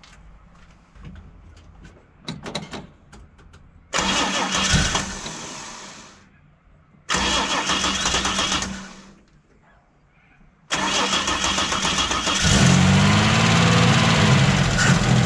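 A long-parked Holden inline six-cylinder engine with a Stromberg carburettor being started on fuel poured into its float bowl. Two short tries about four and seven seconds in die away. About eleven seconds in it catches and keeps running, its revs rising and falling.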